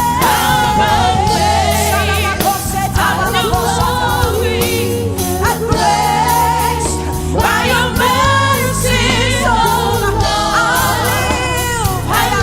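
Gospel worship song: a singer holds long, wavering notes and melodic runs over a band accompaniment with a steady bass line.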